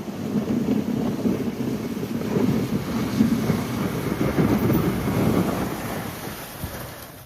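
Low, uneven rumble of a vehicle engine working, fading over the last second before cutting off abruptly.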